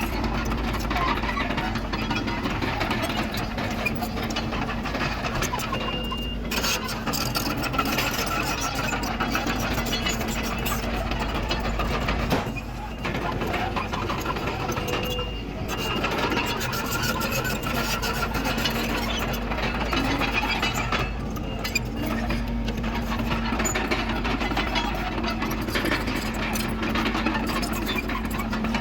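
Komatsu D31PX bulldozer's diesel engine running steadily, with dense metallic clatter from the machine at work that drops away briefly a few times.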